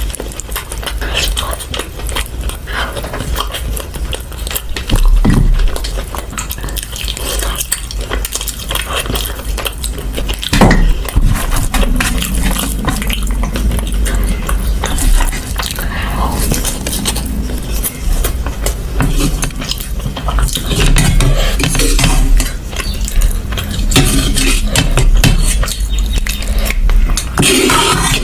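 Mutton rice being mixed and scooped from a plate during close-miked eating, with frequent irregular clicks and scrapes against the plate.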